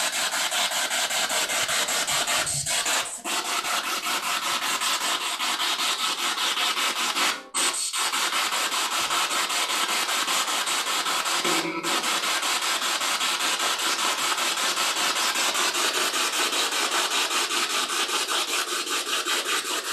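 Spirit box sweeping through radio stations: a steady hiss of static chopped rapidly, several times a second. It breaks off briefly three times, about three, seven and twelve seconds in.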